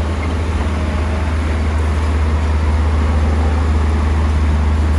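Bulldozer's diesel engine running steadily with a deep low drone, working a little harder and louder toward the end.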